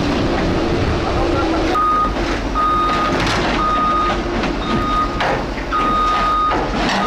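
Excavator's diesel engine running under load while its travel alarm sounds a steady single-pitch beep, on and off in five beeps of uneven length, as the machine creeps onto a trailer.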